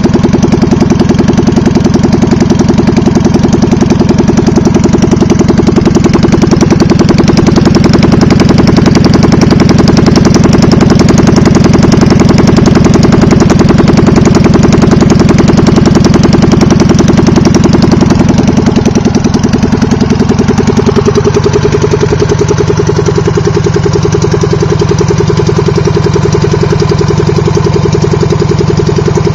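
NSU Prinz 598cc air-cooled two-cylinder engine running on its first run after being seized and sitting for a long time. It runs steadily, then slows and gets a little quieter about two-thirds of the way in, settling at a lower idle.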